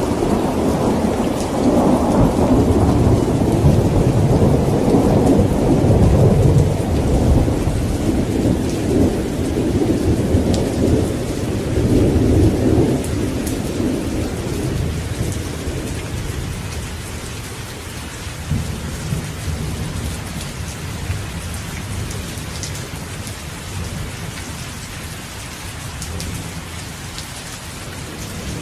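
Steady rain falling, with a long roll of thunder that rumbles loudly through the first half and fades away about halfway through, leaving the rain alone.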